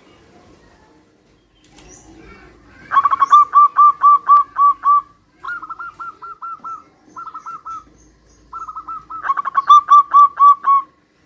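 Zebra doves (perkutut) cooing in rapid strings of short, bubbling staccato notes. A loud run starts about three seconds in, a softer, slightly higher run answers it, and a second loud run comes near the end: birds calling back and forth.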